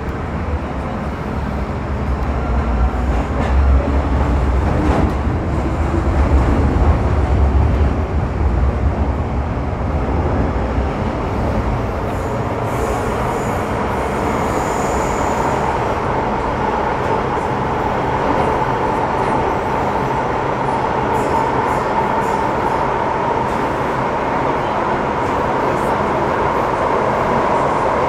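MTR Metro Cammell M-Train electric multiple unit (C115, GEC GTO chopper) running through the tunnel, heard from inside the car. A heavy low rumble in the first ten seconds gives way to a steady whine from about the middle on.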